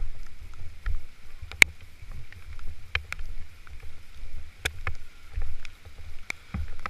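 Wind buffeting the microphone in an uneven low rumble, with half a dozen scattered sharp clicks or snaps at irregular intervals.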